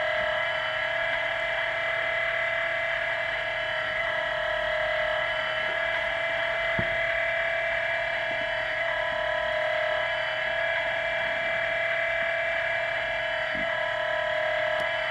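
Sound-fitted OO-gauge-style model class 66 diesel locomotive, its sound decoder playing a steady engine idle through the model's small speaker, giving a buzzy, unchanging hum.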